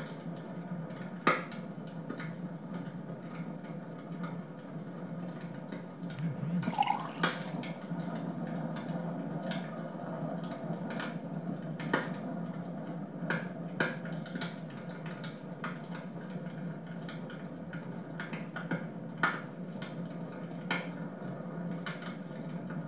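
Wood fire crackling in a fireplace: scattered sharp pops and snaps over a steady low hum, with a louder pop about a second in and a brief hiss with a wavering pitch around six to seven seconds in.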